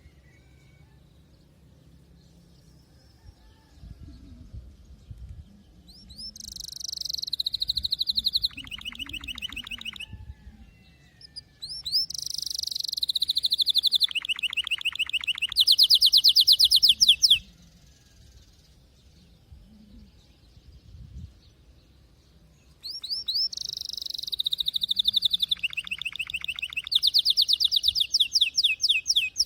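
Canary singing three long song phrases, each opening with a few quick rising notes and then running into rapid trills that jump between pitches; the last phrase breaks off near the end.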